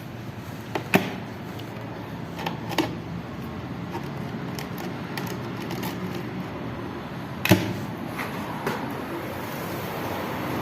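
Window air-conditioner fan motor, its worn bushes just replaced, switched on and running up with a steady hum that grows gradually louder. A few sharp clicks and knocks sound over it, the loudest about seven and a half seconds in.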